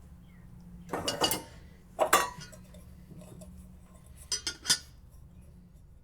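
Dishes and metal cutlery clattering and clinking in a few separate bursts: one about a second in, a louder one about two seconds in, and two quick clinks between four and five seconds.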